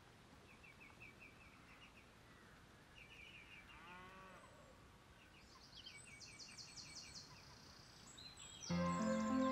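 Countryside ambience of small birds chirping in short, high trills, with a cow mooing once about four seconds in. Music comes in loudly near the end.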